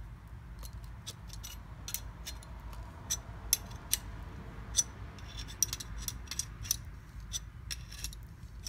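Irregular light metallic clicks and ticks from a wrench turning the forcing screw of a small bearing puller, drawing a worn bearing off the shaft of a Mercedes ML ABS pump motor.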